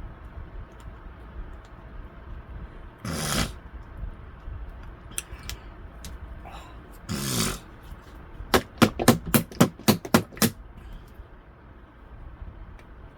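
Close-up eating sounds: two short noisy swishes, then a quick run of about nine sharp clicks, roughly five a second, a little past the middle.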